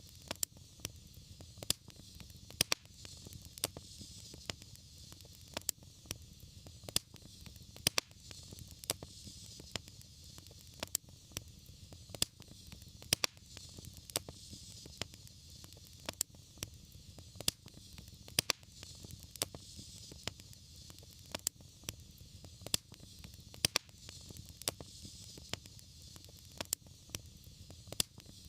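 Wood fire crackling: sharp irregular pops, a few a second, over a steady soft hiss and low rumble of the flames.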